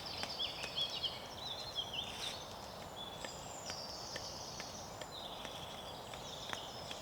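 Woodland birds singing: high trilled phrases and chirps coming again every second or two, over scattered small crackles from a campfire.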